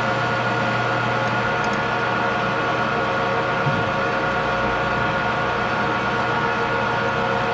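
A metalworking machine tool running steadily, its motor and drive giving a constant hum with many steady tones.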